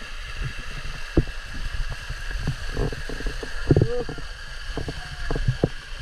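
Water sounds: a steady rushing haze with scattered small splashes, clicks and brief gurgles.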